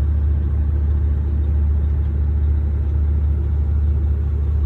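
Steady low rumble of an idling Volvo 780 semi-truck, heard from inside its cab.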